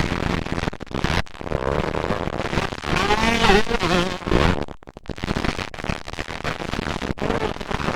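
Motocross dirt bike engines revving, their pitch climbing and falling, loudest and clearest around the middle, with a few brief dropouts in the sound.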